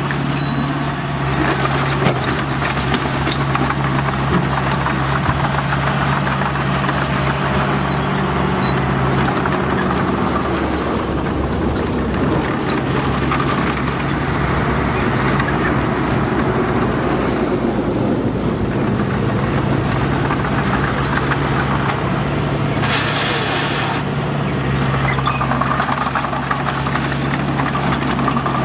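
Heavy diesel engine of earthmoving machinery running steadily at a constant pitch, with a brief hiss about three quarters of the way through.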